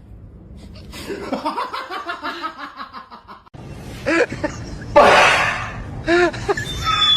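A person laughing in quick bursts, then, after an abrupt change, more short laughs and vocal sounds with a brief noisy burst.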